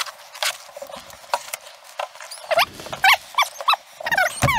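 A dog whining and yipping in short, quick, high calls, starting about halfway through. Before that there are a few sharp crunches or clicks.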